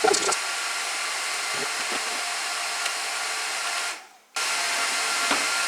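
Cooling fans of a Gigabyte R180-F34 1U rack server running steadily during boot, a steady whooshing hiss with faint whine tones. It cuts off for a moment about four seconds in, then resumes slightly louder.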